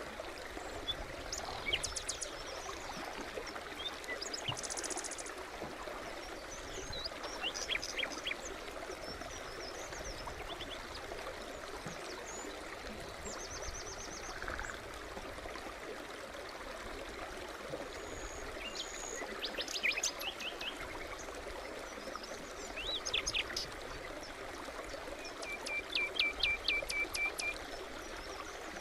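A small brook babbling steadily, with songbirds calling over it. Short chirps and trills come every few seconds, and near the end there is a run of quick repeated notes.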